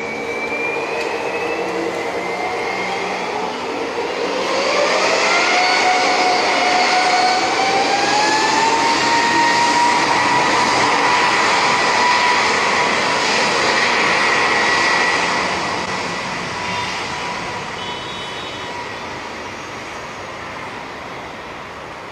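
Airbus A320neo's jet engines spooling up to takeoff thrust: a whine rises in pitch over several seconds, starting about four seconds in, over a loud rushing roar. The whine then holds steady and high, and in the last several seconds the sound slowly fades.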